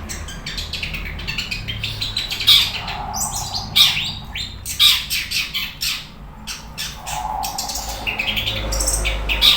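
Long-tailed shrike (cendet) in full song: a loud, varied stream of sharp chirps, clicks and harsher notes, with the loudest notes about two and a half to five seconds in.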